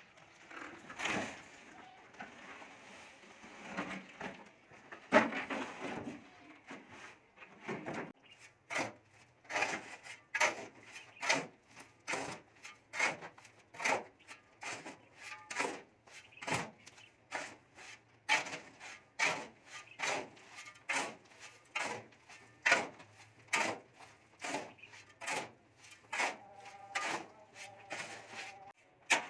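Repeated sharp knocks from a hand tool striking, about two a second, steady for most of the stretch, after a few irregular knocks and some rubbing at the start.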